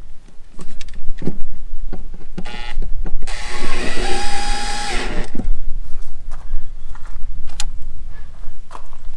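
A cordless drill/driver runs in a short burst about two and a half seconds in, then for about two seconds more, a steady whine driving screws into the water heater's trim ring. Scattered clicks and knocks of the tool and the metal parts being handled come before and after it.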